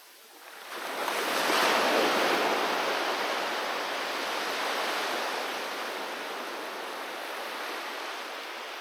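Sea waves on the shore: a wave breaks just under a second in, loudest around two seconds, and its wash then slowly dies away.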